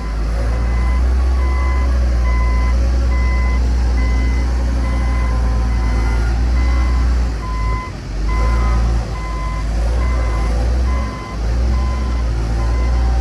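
Dump truck's reversing alarm beeping steadily and evenly over the loud low rumble of its diesel engine, which dips briefly twice in the second half.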